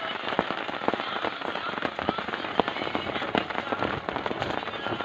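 Heavy rain falling, heard as a dense, irregular crackle of close drop hits over a steady hiss.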